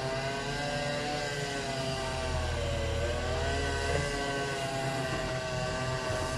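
A chainsaw's small two-stroke engine running at high revs, its pitch wavering and sagging briefly partway through as it works. A lower engine rumble drones underneath and fades in and out.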